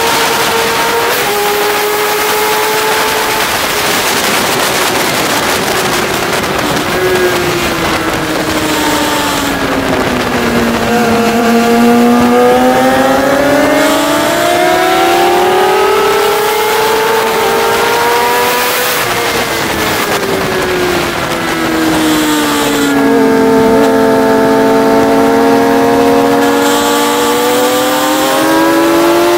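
Sport motorcycle engine at track speed, its pitch falling and climbing as the rider brakes into and drives out of corners, with a couple of sudden steps at gear changes. A steady wind rush runs over it.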